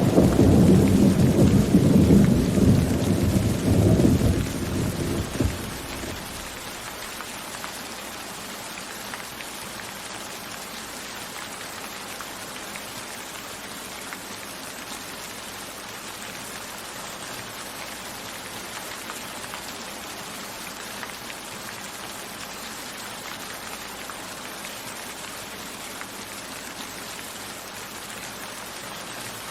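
Steady rain falling, with a roll of thunder rumbling loudly at the start and dying away about five or six seconds in, leaving an even patter of rain.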